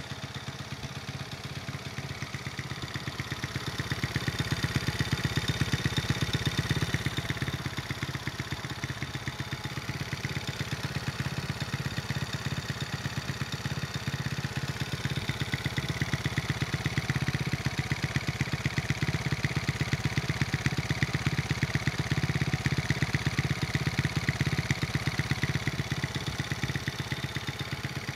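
1988 Honda Monkey's small four-stroke single-cylinder engine running through an OUTEX T2 aftermarket exhaust with an aluminium silencer, mostly idling with a steady, even beat. It picks up slightly twice, a few seconds in and again past the middle.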